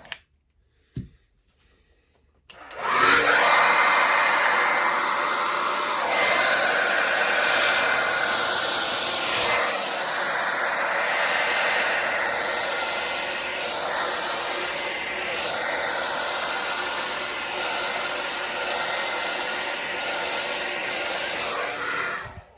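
Hair dryer switched on about two seconds in and blowing steadily for some twenty seconds, its level wavering a little, then switched off just before the end: air being blown to push poured acrylic paint across the canvas in a Dutch pour.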